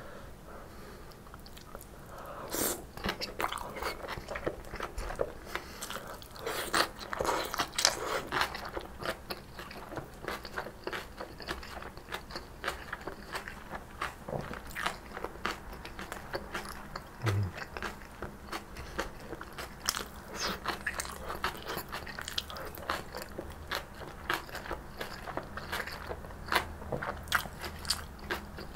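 Chewing and biting of tofu with lightly stir-fried kimchi, with many crisp crunches from the kimchi's crunchy cabbage, starting about two seconds in and continuing throughout.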